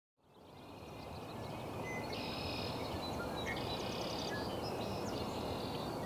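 Outdoor ambience fading in: a steady low rumble under small birds chirping and twittering in short, high, repeated calls.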